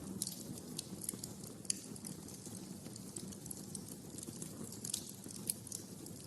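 Wood fire crackling in a fireplace: a low steady rush of flames with irregular sharp pops and snaps, a few louder ones about two seconds in and near the end.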